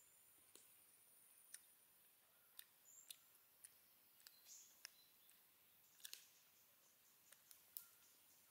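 Faint, irregular mouth clicks and smacks of someone chewing braised chicken, with a few soft noises of meat being pulled apart by hand.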